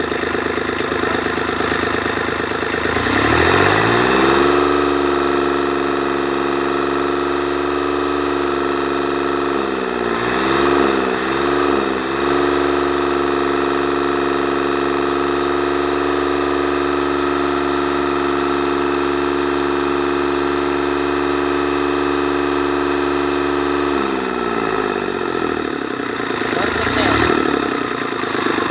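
Kubota D905 three-cylinder diesel engine revved from idle to a steady high speed about three seconds in, the throttle wavering briefly around ten seconds, then dropped back to idle near the end with one short blip after.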